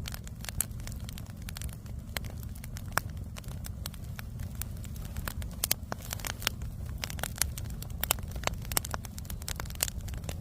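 Burning firewood crackling, with sharp irregular pops several times a second over a steady low rumble.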